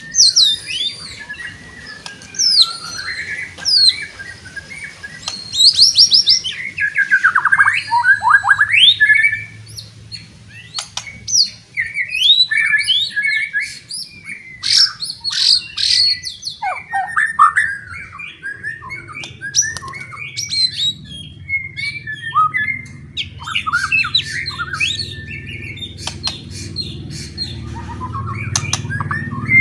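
White-rumped shama (murai batu) singing loudly: a long, varied run of clear whistles, rapid up-and-down sweeps and chattering phrases, broken by short pauses. A low hum rises in the background in the second half.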